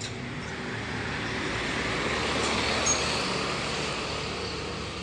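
A road vehicle passing by: a smooth rush of noise that swells to a peak about halfway through and then fades away, with a small click near the middle.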